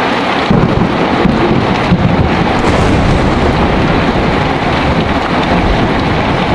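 Heavy rain falling steadily, with a low rumble of thunder coming in about half a second in and rolling on.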